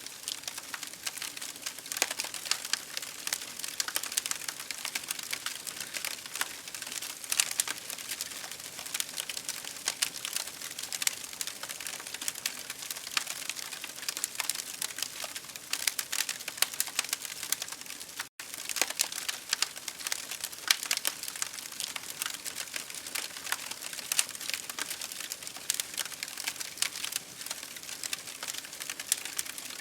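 Campfire crackling with dense, irregular pops and snaps over a steady hiss of rain. The sound cuts out for an instant about two-thirds of the way through.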